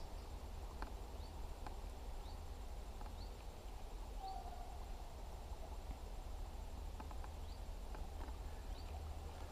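Quiet lakeside ambience: a low steady rumble under short, high, rising bird chirps that come about once a second, with one brief lower call about four seconds in and a few faint ticks.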